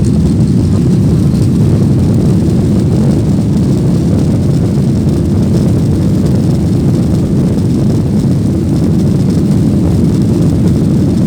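Airliner's jet engines at takeoff power heard from inside the passenger cabin: a loud, steady, deep rumble with a faint high whine above it.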